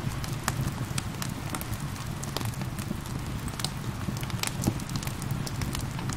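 Wood fire crackling, with irregular sharp pops several times a second over a steady low rumble, mixed with gentle rain hiss.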